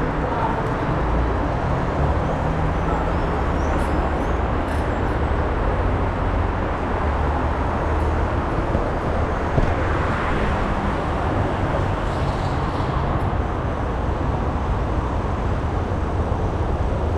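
Steady city road traffic noise with a low rumble of vehicle engines.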